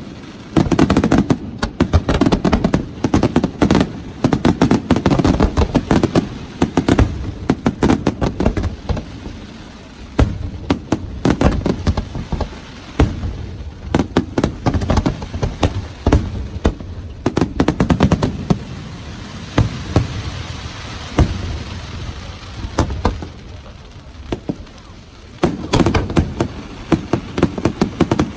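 Fireworks display: rapid volleys of bangs and crackling shells going off in quick succession. They thin out to a hissing crackle about three-quarters of the way through, then come thick and fast again near the end.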